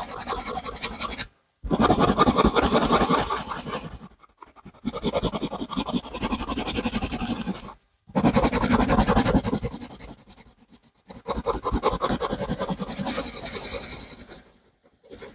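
A drawing tool scratching on paper in rapid strokes, as when colouring in. It comes in several stretches of a few seconds each, with short pauses between them.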